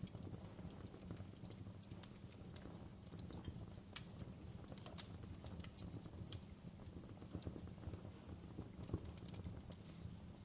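Wood fire crackling in a fireplace: irregular sharp pops and snaps, the loudest about four seconds in, over a steady low rumble.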